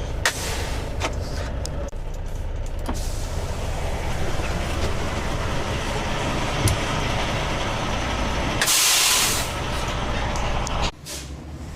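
Semi-truck engine running with a steady low rumble, a few sharp clicks, and a loud air-brake hiss lasting about a second near the end.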